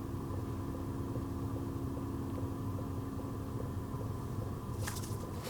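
Steady low rumble with a faint hum that fades out about four seconds in, and a brief rustle near the end.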